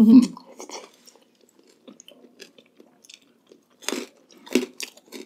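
Close-miked chewing of food, with faint clicks and two loud crunchy bites about four seconds in, half a second apart.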